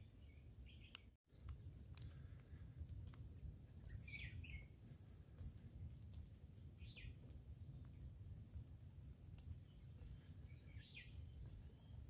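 Faint wild bird calls: a few short, falling notes spaced a few seconds apart, over a low rumble and a faint steady high hiss.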